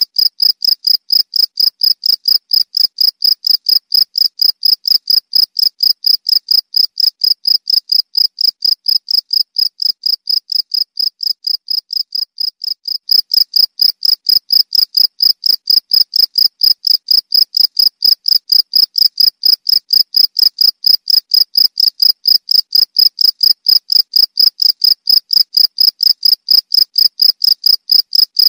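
Cricket chirping steadily: one high-pitched note pulsing evenly, about three chirps a second. It grows a little softer, then about halfway through returns abruptly to full loudness.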